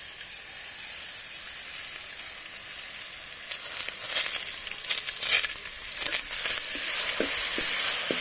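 Ground paste of ginger, garlic, kanthari chillies and peppercorns frying in hot coconut oil in a pan: a steady sizzle that turns into sharp crackling spatters from about halfway in and grows louder near the end.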